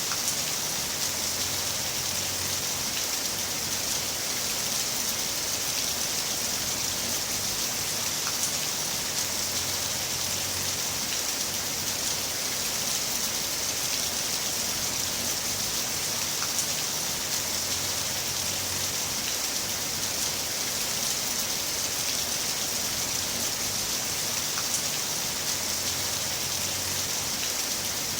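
Heavy rain falling steadily, a dense hiss of many drops. A faint low rumble swells and fades every seven or eight seconds underneath.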